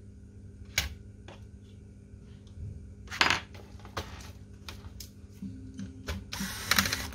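Scattered sharp clicks and small knocks of plastic and metal laptop parts and tools being handled, with a louder knock about three seconds in and a quick run of clicks near the end.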